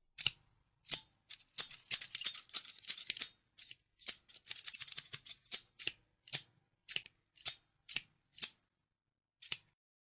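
Scissors snipping: quick runs of rapid cuts in the first half, then single crisp snips about half a second apart.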